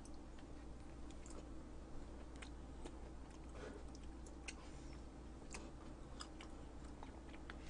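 Quiet chewing and small mouth sounds of someone eating, with scattered light clicks of wooden chopsticks against a plastic tray, over a low steady hum.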